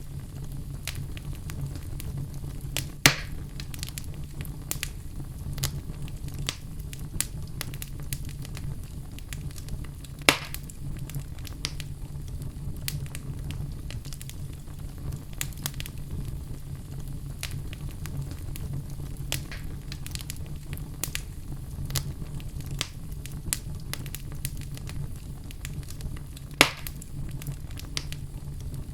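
Fire crackling steadily: a low rumble of flames with many small snaps and three louder pops, about 3, 10 and 27 seconds in.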